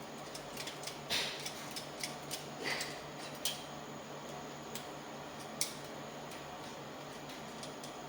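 Scattered light clicks and taps, most in the first few seconds and one more a little past halfway, over a steady low hum.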